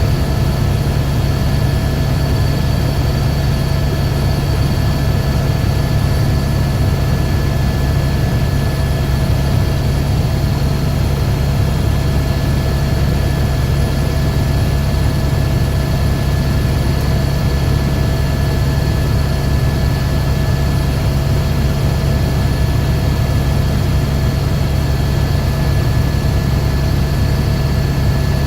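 Helicopter turbine engine and rotor running steadily and loud, a low rotor hum under a constant high whine.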